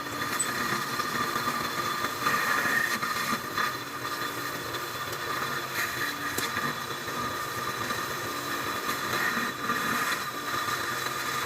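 Metal lathe running steadily, with a few light clicks.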